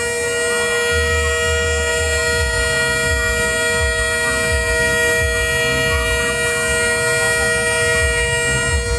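A long, steady horn sounding one unbroken chord of several pitches, over a low, uneven thumping.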